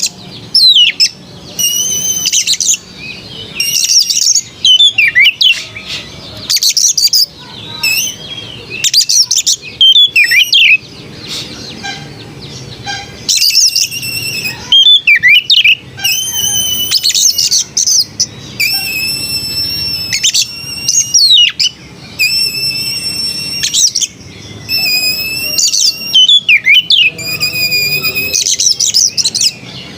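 Oriental magpie-robin (kacer) singing: loud, clear whistled phrases repeated every second or two, with swooping notes between them.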